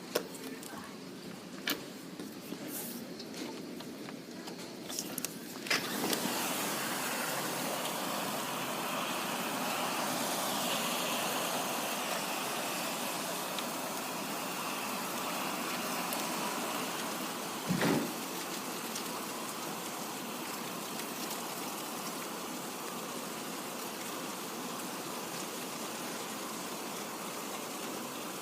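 Rain: scattered drops ticking at first, then about six seconds in it suddenly turns into a steady heavy downpour. One short thud sounds about eighteen seconds in.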